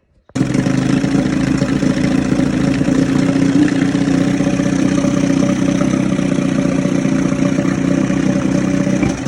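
Johnson/Evinrude 28 SPL two-stroke outboard motor, rope-started on its flywheel, catching abruptly under half a second in and then running steadily. It runs on fuel fed through its epoxy-repaired fuel pump.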